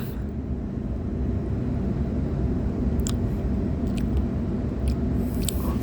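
Steady low rumble of a Sydney Trains Waratah electric train running, heard from inside the carriage, with a few faint clicks about three, four and five seconds in.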